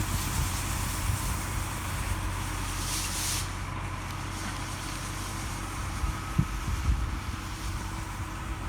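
Steady low engine hum of a nearby motor vehicle, with wind buffeting the microphone now and then. A high hiss stops about three and a half seconds in.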